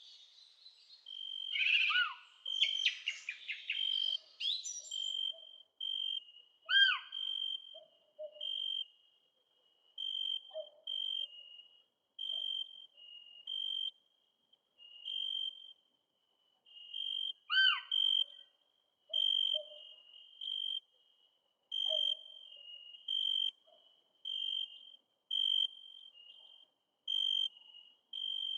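Wild birds calling: a brief burst of chirping song in the first few seconds, then a steady series of short, high whistled notes repeated about once a second, alternating slightly in pitch, with an occasional louder swooping call.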